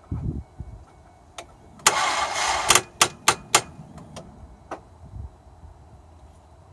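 Ford Escape's starter trying to crank the engine: a few low thuds, then a harsh whir of just under a second, then a string of sharp clicks, and the engine does not catch. The battery is charged but the engine is not fully cranking over; the owner thinks it might be the alternator.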